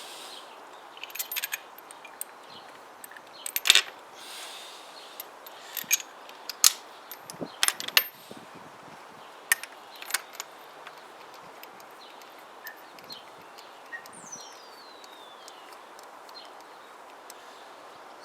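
Irregular sharp metallic clicks and knocks of hand tools and engine parts being handled while spark plugs are fitted into a motorcycle engine, busiest in the first half and sparser later.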